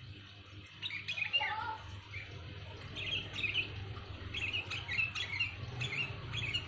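Sooty-headed bulbul giving loud, clear calls: quick bubbly chirping phrases in four short bursts with brief gaps between them.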